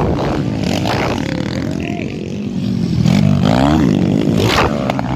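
Underbone motorcycle engines revving in a motocross race, their pitch rising and falling as the throttle is worked, with a rise about three and a half seconds in. A few sharp clattering noises are heard among them.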